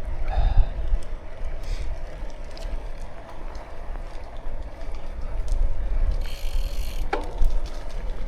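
Bicycle riding along a road: low wind rumble on the microphone and tyre noise, with small clicks and rattles from the bike. A brief hiss about six seconds in, then a short squeak about seven seconds in.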